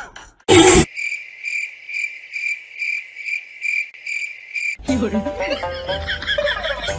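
Cricket chirping in an even pulse a little over twice a second, after a short loud burst about half a second in. Music with a beat cuts in near the end.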